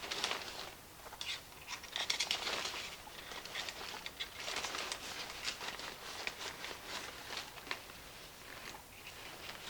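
Handling noise as a replacement blower fan is set into place in a yard inflatable: irregular rustling and crinkling with many small, sharp clicks and taps.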